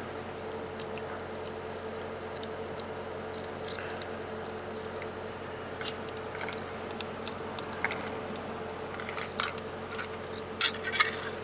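A cat chewing and crunching food, small irregular clicks of biting, over a steady hum in the background.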